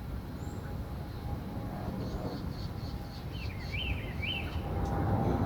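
Songbirds calling, with a run of short high notes and, past the middle, a couple of quick sweeping phrases, over a steady low rumble.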